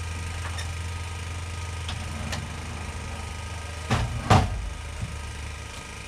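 Portable generator engine running steadily at idle, a constant low hum. Two sharp knocks come about four seconds in, a split second apart.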